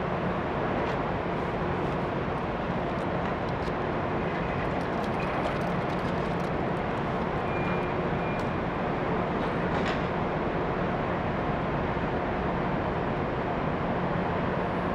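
Steady drone of a large passenger ferry's machinery running at the pier before departure, with a low hum and a few faint clicks.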